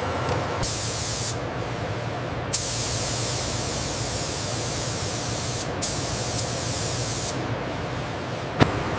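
Spray gun hissing in three bursts: a short one, then a long one of about three seconds, then one of about a second and a half, over a steady low machine hum. A sharp knock sounds near the end.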